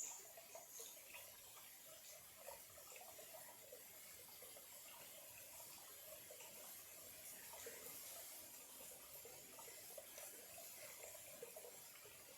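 A small clear stream trickling faintly, with little irregular bubbling sounds.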